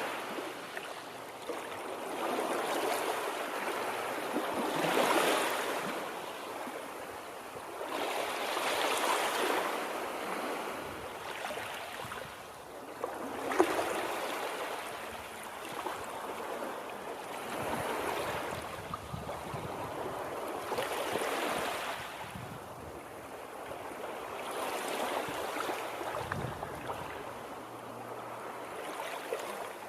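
Running water: a steady rush that swells and fades every three to four seconds.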